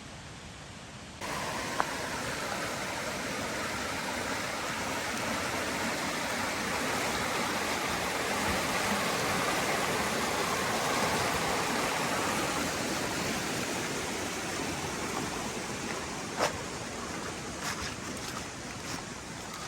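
A steady rush of water that swells toward the middle and eases off near the end, with a sharp tap a couple of seconds in and another near the end.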